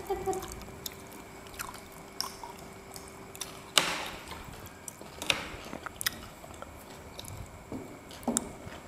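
People eating: chewing and soft wet mouth sounds, with scattered light clicks of a fork and skewers on a plastic tray, and a few louder short noises about four and five seconds in.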